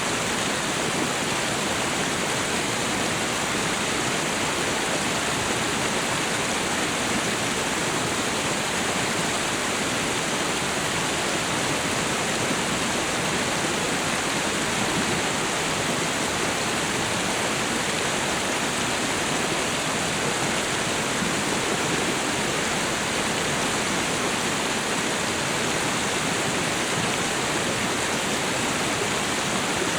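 Waterfall and river water rushing, a steady, even roar of falling and flowing water.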